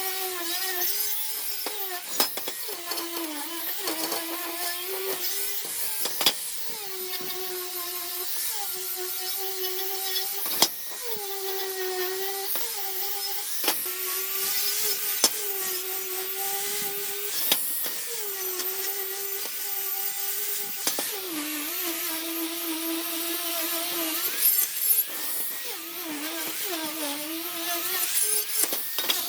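A power tool's motor whining steadily, its pitch dipping briefly every few seconds as it bites into the work, with a hiss of cutting and a few sharp clicks.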